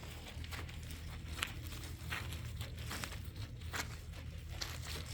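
Scattered rustling and light clicks of dry material being moved, over a low steady hum.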